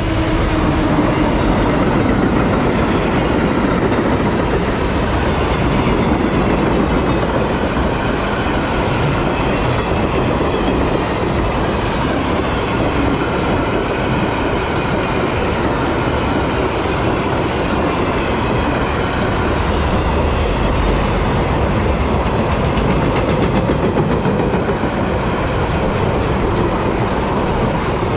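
Freight train passing close by, loud, its wagon wheels running over the rails.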